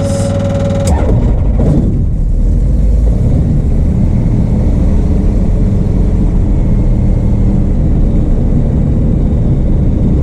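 Van's RV-12's Rotax 912 four-cylinder engine starting with the choke on: it catches about a second in, surges briefly, then settles into a steady idle.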